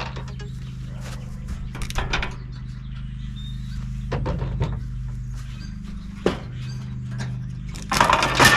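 Metal knocks and clatters from an air-conditioner condenser being taken apart for scrap, a few separate strikes with the loudest cluster near the end, over a steady low hum.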